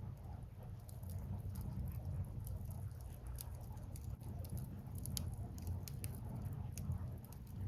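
Firewood burning in an open fire, crackling with many small, sharp pops scattered irregularly over a steady low rumble.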